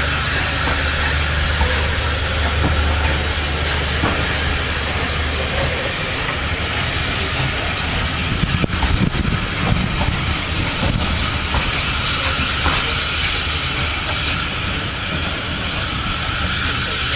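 Steam railway train running, with a steady hiss of steam. A low steady hum stops about six seconds in, leaving an uneven rumble with light ticks.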